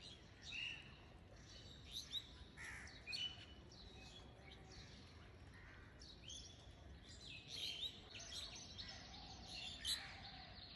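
Faint bird chirps: short calls with falling pitch, repeating irregularly every second or so over a quiet background.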